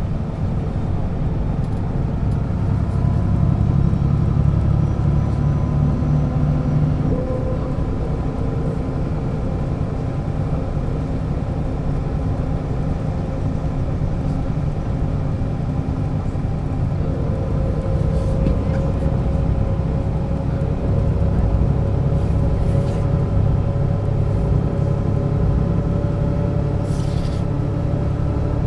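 1996 Setra S 315 UL bus under way: a steady engine drone with a faint whine, rising slowly in pitch over the second half as the bus picks up speed. A short hiss sounds near the end.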